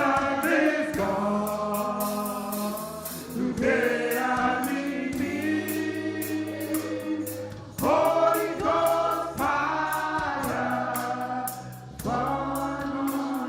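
Gospel worship singing by a group of voices in long held phrases over sustained low instrumental chords, with a steady ticking beat.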